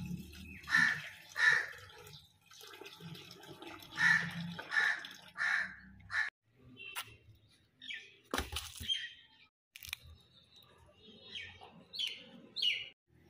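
A bird calling over and over in runs of short calls, about two-thirds of a second apart, with a single sharp knock about eight seconds in.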